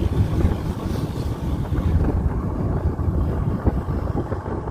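A car driving along: a steady low road rumble with wind buffeting the microphone.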